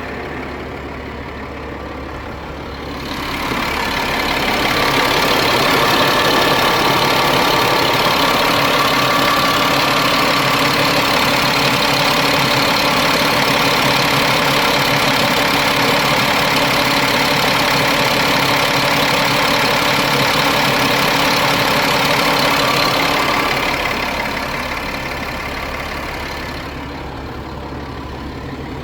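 Caterpillar 3126B 7.2-litre inline-six diesel in a Ford F750 truck idling steadily. It grows louder and brighter a few seconds in and falls back near the end.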